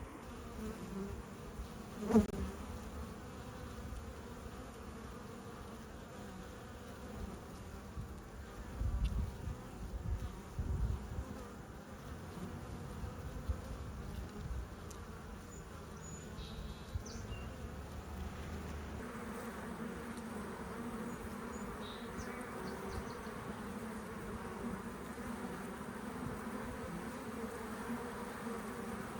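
Honeybees humming steadily as a colony flies around a log beehive, with a single sharp knock about two seconds in.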